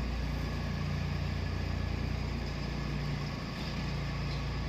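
Tractor diesel engine running steadily while pulling a land leveler across a field, a constant low hum.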